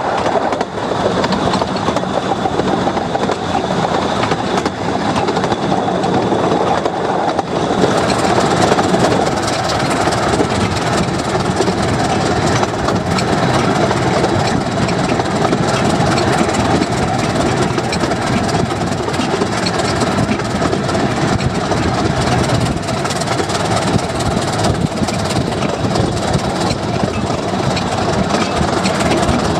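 A 15-inch gauge train on the move: steady running noise of the carriage wheels on the rails. About eight seconds in it becomes slightly louder and brighter.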